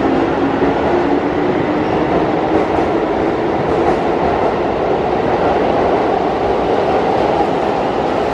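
Keihan electric train running through the underground platform with a steady rumble. A motor hum fades in the first second or two.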